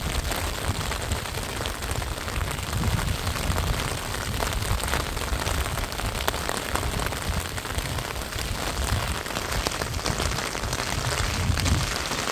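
Steady rain falling, a constant hiss with an uneven low rumble underneath.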